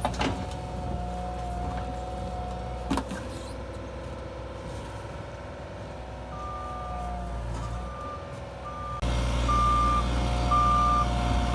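A heavy vehicle's engine running with a steady hum. About halfway through, its reversing alarm starts beeping, repeating at an even beat roughly once a second. The engine gets louder about nine seconds in, and there are two sharp knocks, one just after the start and one about three seconds in.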